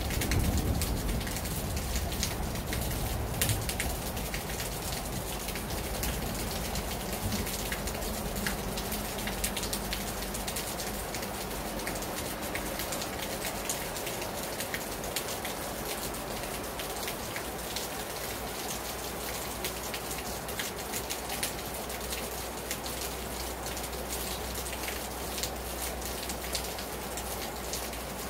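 Heavy rain falling hard on a terrace: a steady hiss of rain with many sharp, close drop impacts spattering throughout. There is a brief low rumble near the start.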